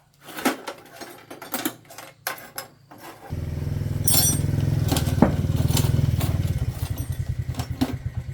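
Metal clicks and knocks, then a tractor engine abruptly starts and runs steadily for a few seconds before slowing into separate firing pulses that space out as it dies away.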